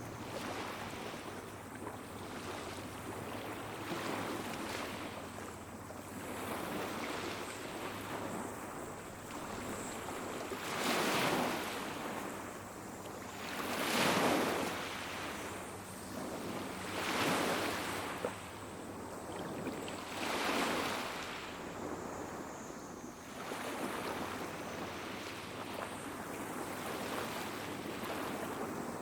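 Small waves washing onto a beach, a steady wash with a run of louder surges about every three seconds midway, the strongest near the middle.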